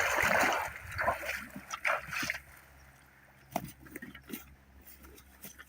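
Water splashing and sloshing in several bursts, then a few small knocks.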